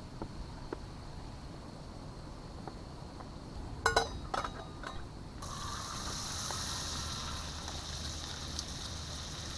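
A few metallic clicks and clatters about four seconds in, then a pan suddenly starts a steady sizzle about halfway through: butter frying for a brown butter sauce on a camp stove.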